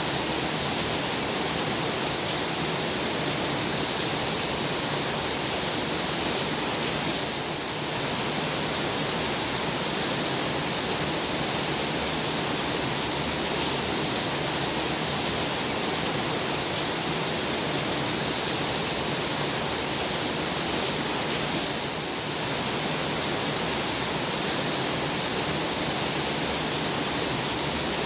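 Heavy rain falling steadily, a dense even hiss, dipping slightly twice for a moment.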